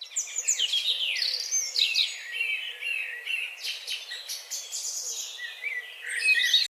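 Several birds chirping and singing over one another in quick, high-pitched trills and calls; the sound cuts off suddenly near the end.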